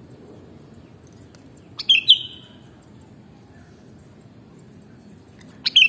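Sooty-headed bulbul (kutilang) giving a short, bright call phrase twice, about four seconds apart, over a faint steady hiss.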